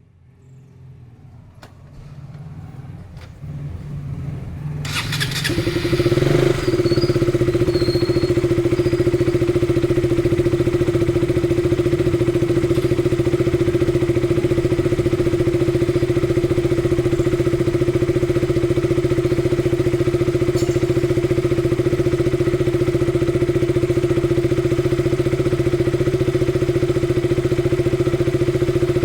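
2017 KTM RC200's single-cylinder engine being cold-started. The starter cranks about five seconds in, the engine catches within about a second and settles into a steady idle.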